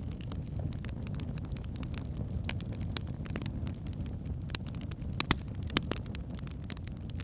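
Wood fire burning in a fireplace: a steady low rumble of the flames with irregular sharp crackles and pops from the burning logs, a few louder pops about five to six seconds in.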